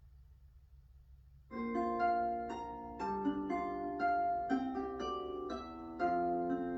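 Near silence, then about a second and a half in a piano-like keyboard starts a children's song intro, with chords changing about twice a second.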